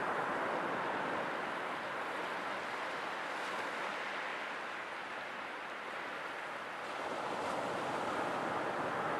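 Sea waves washing on a shore: a steady rush of surf that ebbs slightly midway and swells again near the end.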